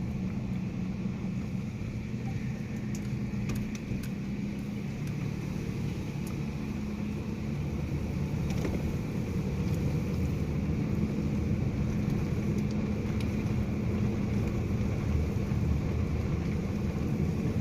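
Steady low mechanical hum, with a few faint clicks over it. It grows slightly louder about halfway through.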